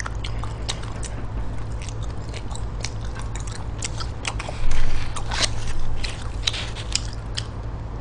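Close-up wet chewing and mouth clicks of a person eating spicy stir-fried pork intestines, with a louder stretch of chewing about five seconds in. A steady low hum runs underneath.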